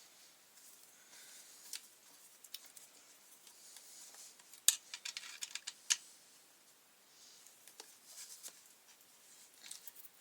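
Sharp clicks and light scraping of hand tools and plastic parts while the fuel tank is taken off a McCulloch string trimmer. A quick run of clicks comes about halfway through, the first of them the loudest.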